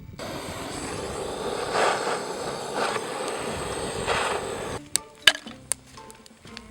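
Loud sizzling of food in a hot wok over a wood fire, swelling three times, then cutting off suddenly; a few sharp clicks follow.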